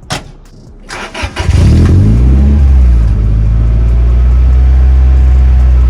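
Toyota 3S-GE Beams inline-four engine in a 1974 Datsun 620 pickup starting: a click, a brief crank about a second in, then it catches, revs up and settles into a steady idle. It starts right up, no problem.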